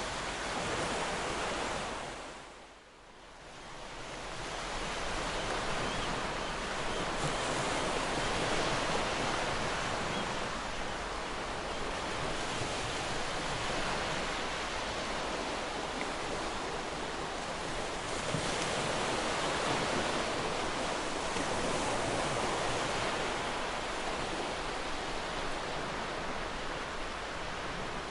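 Ocean surf on a beach: a continuous wash of breaking waves that swells and eases. The sound fades almost away for a moment about three seconds in, then builds back.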